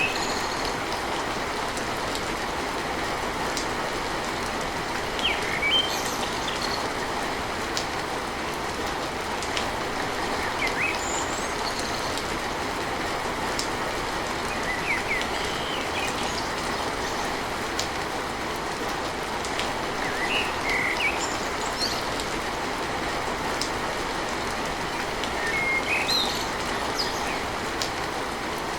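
Steady rain drumming on a tin roof, with short high bird chirps scattered through it.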